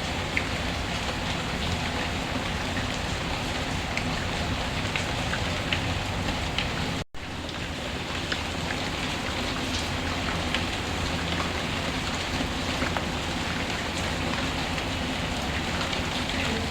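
Steady rain falling, with scattered small crackles from a fireplace fire mixed in. The sound drops out for an instant about seven seconds in.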